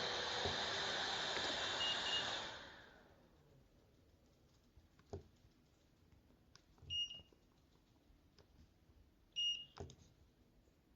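Neck cooler's fans running with a steady rush of air and a short beep about two seconds in, then winding down and stopping by about three seconds in. Quiet follows, with a few clicks and two short, two-tone electronic beeps about seven and nine and a half seconds in.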